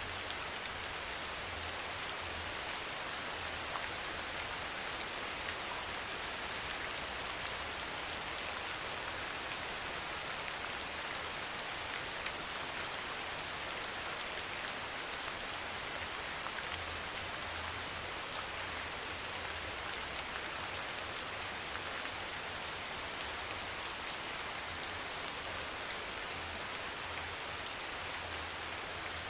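Steady rain falling, an even hiss with scattered individual drop ticks, unchanging throughout. A faint low rumble comes and goes underneath.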